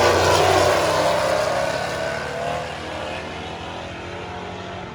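A drag-racing car accelerating hard at full throttle, its engine pitch rising as it pulls away and the sound fading steadily as it goes down the strip.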